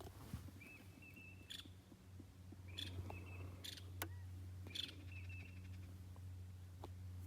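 A bird calling three times, about two seconds apart: short, level-pitched chirping phrases with sharp starts, the last breaking into a quick stutter. A steady low hum runs underneath.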